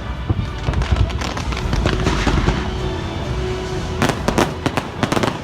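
Fireworks going off in rapid succession, sharp bangs and crackling, with a dense cluster of reports about four seconds in, over the show's music.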